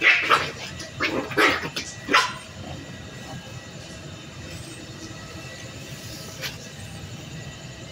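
Puppies play-fighting, giving four or five short, sharp barks in the first two seconds or so. The barking then stops.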